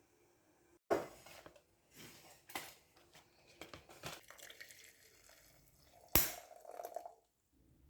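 Kitchen preparation sounds: utensils and dishes knocked and set down, with rustling and scraping between. The loudest knock comes about six seconds in and rings briefly.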